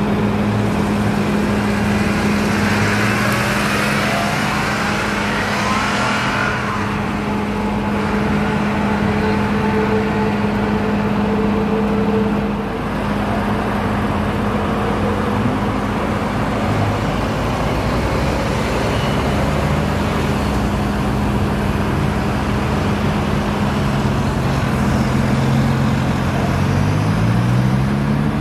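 Car engines, including Porsche 911 flat-sixes, accelerating away one after another over a steady engine drone. Engine pitch rises sharply a few seconds in and again near the end.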